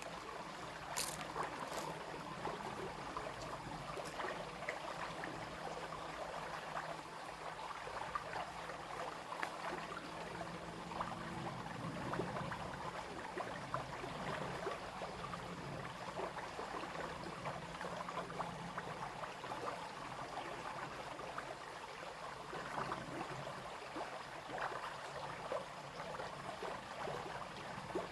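Small brook babbling and splashing steadily. A faint low hum runs under it for roughly the first ten seconds, and two sharp clicks come near the start.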